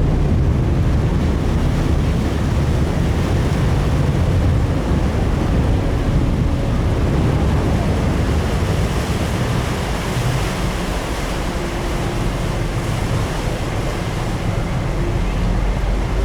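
Steady rush of wind and water aboard a moving passenger ferry, with a low rumble from the vessel underneath.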